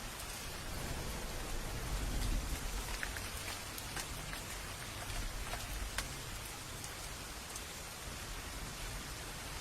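Steady rain falling on a cabin, an even hiss with individual drops tapping sharply here and there. A low rumble swells briefly about two seconds in.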